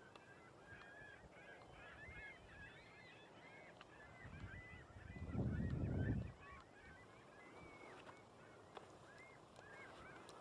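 A flock of geese honking continually, many short calls overlapping. About five seconds in, a louder low rumble rises and dies away within about a second.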